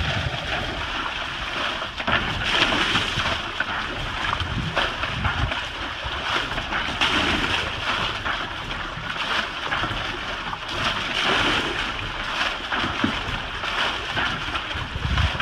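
Water splashing and sloshing around a swamped boat, with wind rumbling on the microphone.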